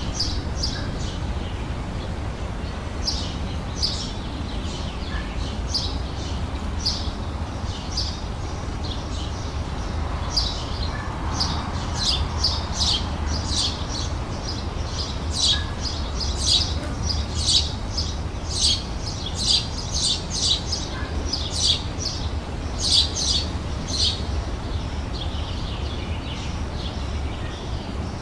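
Small songbirds chirping: many quick, high, short chirps that come thickest in the middle, over a steady low background rumble.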